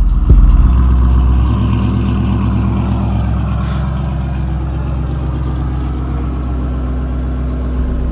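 A Ford Mustang's 5.0 V8 engine surges loudly about half a second in, then settles into a steady idle.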